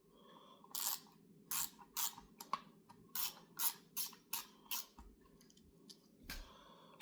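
Hand ratchet with an 8mm socket ratcheting in about ten short bursts, backing out a screw on an HEI distributor cap and coil assembly.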